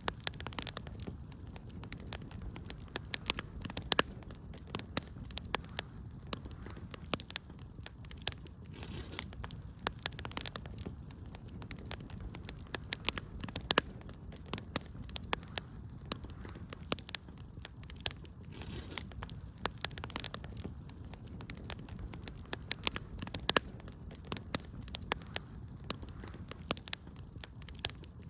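Wood fire burning in a fireplace, with a low steady rumble of flame under many irregular sharp crackles and pops.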